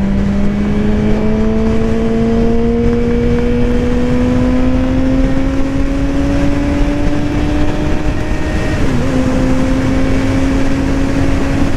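Suzuki GSX-R750's inline-four engine under steady throttle, its note climbing slowly and evenly as the bike gains speed, with a brief dip in pitch about nine seconds in before it holds steady. Wind rush on the microphone runs under it.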